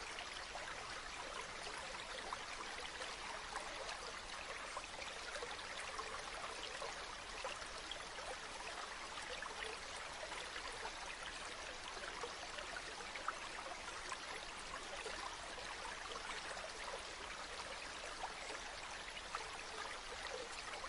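A river flowing: a steady rush of water with small splashes throughout.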